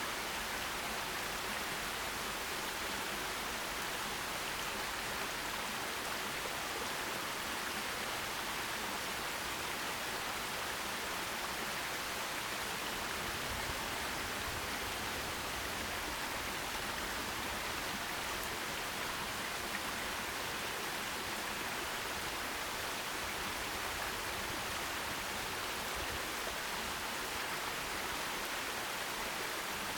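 Forest stream flowing over stones, a steady, even rush of water.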